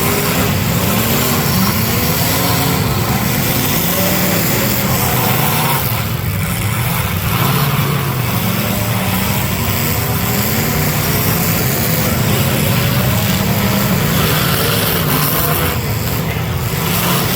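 Several demolition derby cars' engines revving hard together, their pitches rising and falling over one another continuously.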